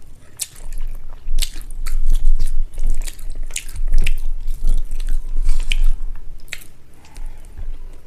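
Close-miked eating of rice and egg curry: wet chewing with irregular sharp mouth clicks and smacks.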